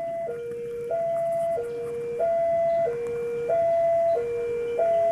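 Electronic two-tone railway level-crossing warning alarm, a higher and a lower tone alternating steadily, each held about two-thirds of a second: the signal that a train is approaching the crossing.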